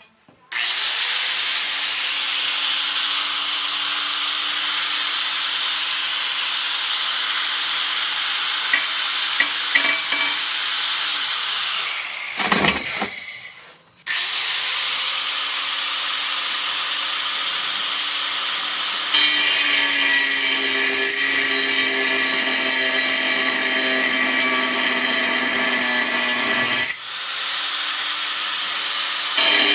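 An electric power tool is cutting or grinding steel plate with a loud, steady, hissing metal-on-metal noise. About twelve seconds in it is switched off and winds down with a falling pitch. Two seconds later it starts again and carries on cutting, its tone changing partway through.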